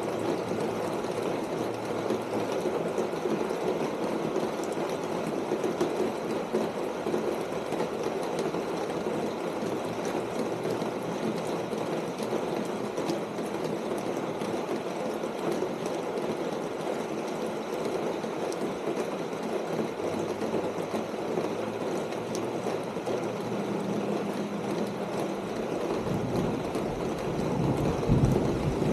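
Steady rain pattering on a corrugated tin roof. Near the end a low rumble builds and peaks: a vehicle passing on the road below.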